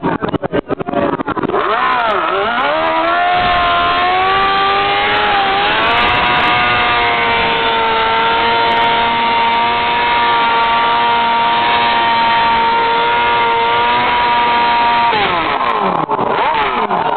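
Motorcycle engine revved in wavering blips, then held at high revs at a steady pitch for about nine seconds, the revs dropping away near the end.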